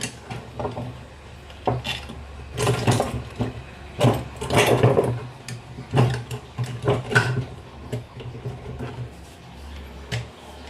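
Irregular metal clinks and scrapes as long screws are fitted back through the casing of a domestic self-priming (Tullu) water pump motor, over a steady low hum.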